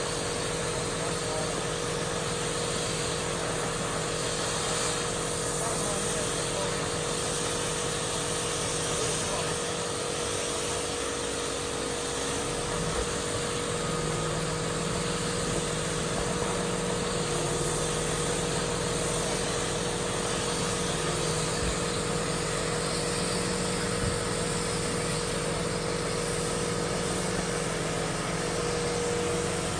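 A machine running steadily with a constant hum, unchanging in level.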